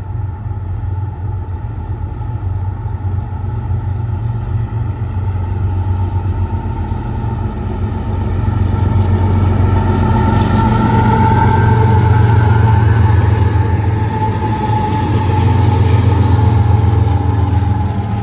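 A train passing, its diesel locomotive giving a steady low hum with higher steady tones above it. It grows louder through the first half, stays loudest for several seconds, then eases off near the end.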